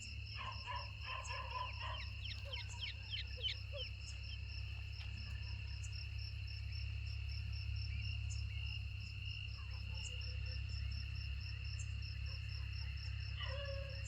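Partridge chicks peeping in a quick run of short calls, the last few sliding down in pitch, with one more call near the end. A cricket trills steadily throughout over a low hum.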